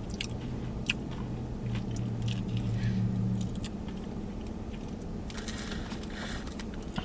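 A person biting into and chewing a piece of crispy battered fried catfish, with scattered crunches through the chewing. A steady low hum runs underneath.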